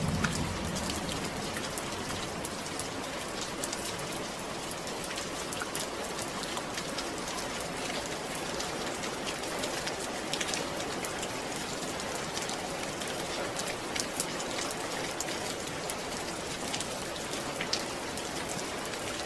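Steady rain falling: an even hiss with scattered sharper drop hits. A low rumble dies away right at the start.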